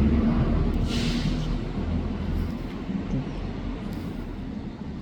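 Low engine rumble of a vehicle, easing off over the first few seconds, with a brief hiss about a second in.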